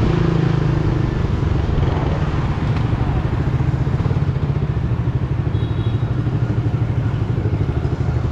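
Single-cylinder engine of a Suzuki GSX-R150 motorcycle running steadily under the rider, with traffic noise around it. In the second half its beat becomes more evenly pulsing.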